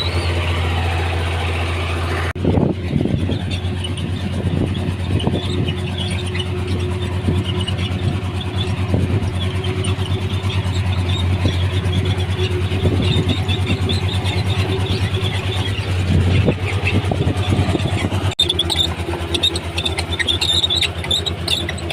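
Komatsu D31P crawler bulldozer's diesel engine running steadily under load, with high squeaking and clanking from its steel tracks. The sound breaks off abruptly about two seconds in and again near the end.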